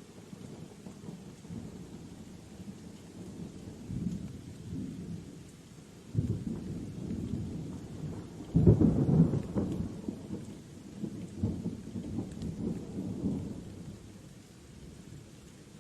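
Thunder rolling over steady rain, rumbling in waves. The loudest peak comes suddenly a little past halfway, and the rumble fades near the end.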